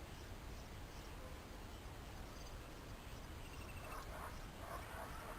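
Faint outdoor ambience: a steady low rumble with faint high chirping, like insects. About four seconds in, a run of short, louder calls or voices starts.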